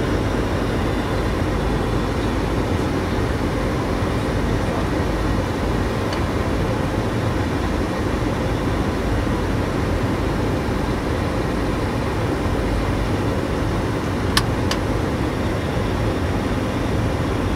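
Steady flight-deck noise of a Boeing 737-600 descending on approach: a constant rush of airflow and engine hum. A single sharp click about fourteen seconds in.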